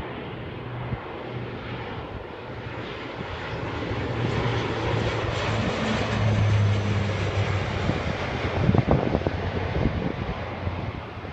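Military aircraft making a low-level flypast: its engine noise builds, peaks about six to seven seconds in, then fades as it goes away.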